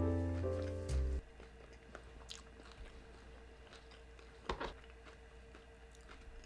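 Background music that stops about a second in, then close-miked chewing of carne asada fries: small wet mouth clicks and a louder bite a little past the middle, over a faint steady hum.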